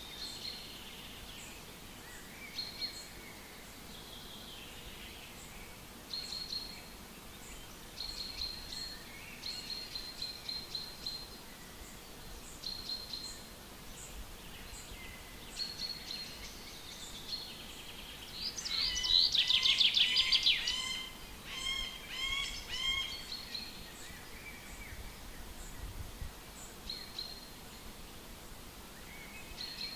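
Songbirds singing in a forest: short, high phrases from several birds come and go throughout, and about two-thirds of the way through one bird sings a loud burst of rapid notes. A faint, steady background hiss lies underneath.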